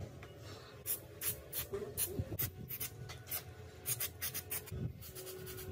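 Short, irregular scraping strokes, a few a second, from hand work on a motorcycle part.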